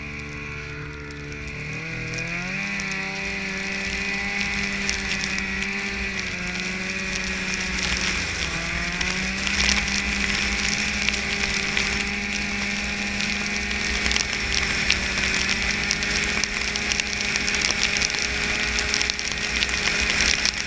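Snowmobile engine running under way, its pitch climbing about two seconds in and again about eight seconds in, then holding steady, with a dense mechanical rattle over it.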